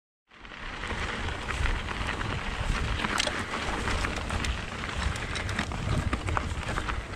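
Mountain bike riding on a dirt trail heard from an onboard action camera: tyres rolling over dirt and gravel, with rattling clicks from the bike and wind on the microphone. The sound comes in a moment after the start, following a brief silence.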